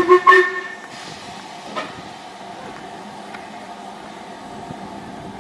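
Steam locomotive whistle: the end of one blast and two short toots in the first half-second, then a low steady background with a single knock a little under two seconds in.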